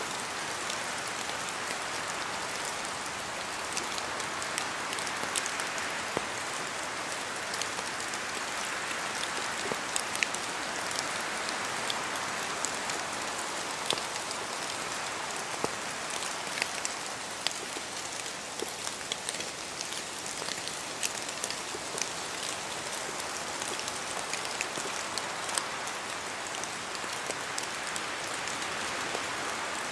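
Steady rain falling through forest trees, a continuous patter with many scattered sharper drips of drops falling from the leaves.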